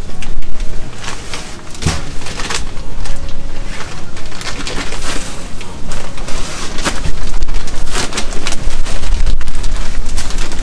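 Wind buffeting the microphone: a loud, gusty rushing noise with heavy low rumble that swells and dips unevenly.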